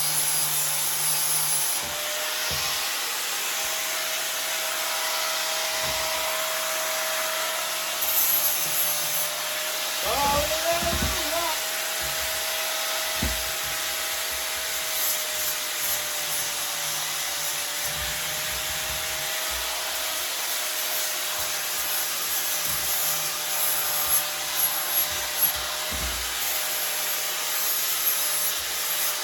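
Hand-held power tool grinding and abrading the welded steel of a pit bike frame: a steady motor whine under a continuous rasping hiss, with a few knocks as the tool is moved over the frame.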